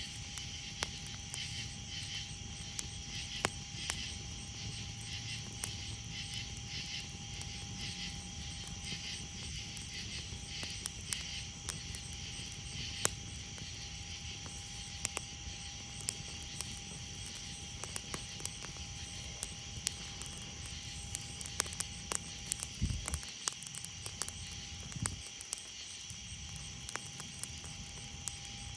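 A campfire crackling with scattered sharp pops, over a steady pulsing chorus of night insects. A low steady rumble runs underneath.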